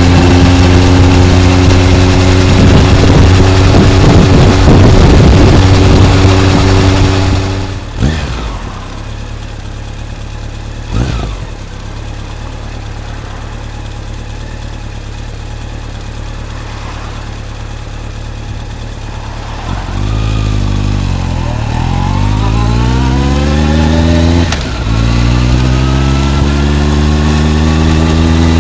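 Honda CB motorcycle with a titanium full exhaust system running at steady speed under wind noise, then dropping to a quiet idle about eight seconds in. About twenty seconds in it revs up and pulls away, with a short dip near the end that fits a gear change, then runs on steadily.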